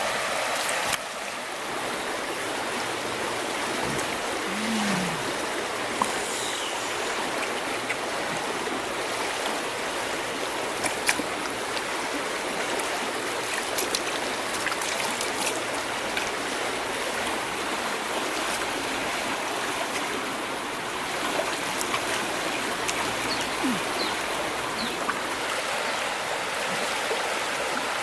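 Flowing river water rushing steadily, with a few sharp clicks or taps scattered through it.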